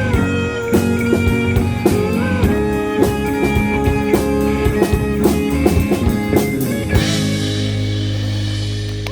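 A rock band plays the end of a song: guitar chords and a drum kit keeping a steady beat. About seven seconds in the drumming stops and a final chord rings out.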